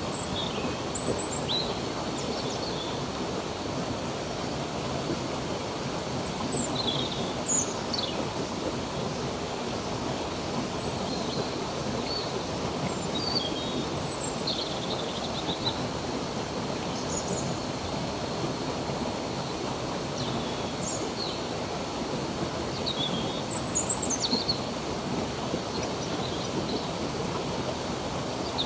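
Stream water running steadily, with birds chirping in short, scattered calls over it.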